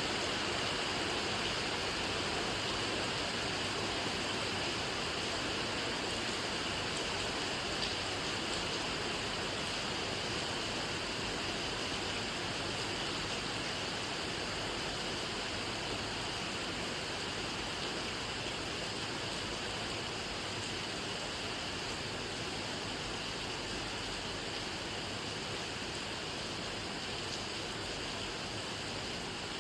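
Steady rainfall, an even hiss of rain with no separate drops standing out, easing very slightly in loudness over the stretch.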